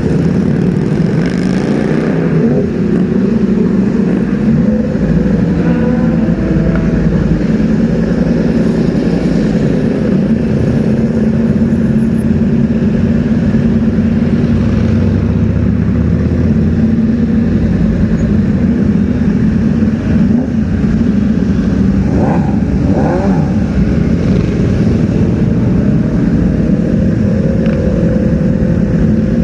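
Superbike engines running with a steady, loud low rumble amid road traffic, with a brief rev about three quarters of the way through.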